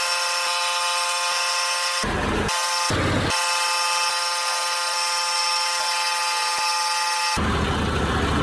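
A power tool running at a steady speed with a constant buzzing whine. It is broken twice, about two and three seconds in, and again near the end by short bursts of fuller, rougher tool noise.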